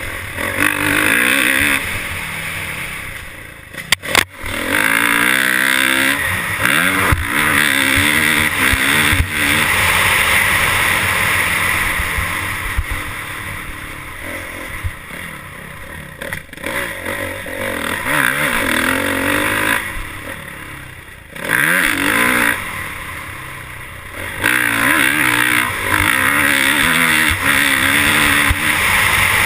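Motorcycle engine revving up and down over and over, the pitch climbing and falling as it pulls through the gears, with quieter dips between the loud stretches and a couple of sharp knocks.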